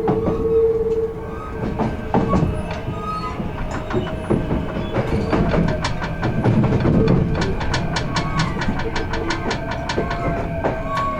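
Kintetsu 16600 series electric train running on jointed rail, heard from inside the car end. The Hitachi-built inverter and traction motors hold steady tones; a strong pair of tones stops about a second in. Wheels click over rail joints and the clicks come thicker from about halfway on.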